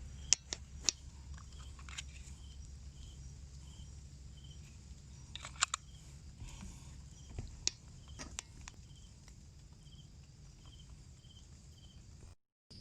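Faint insect chirping in an even rhythm, about three short high chirps every two seconds, over a low steady rumble, with a few sharp clicks.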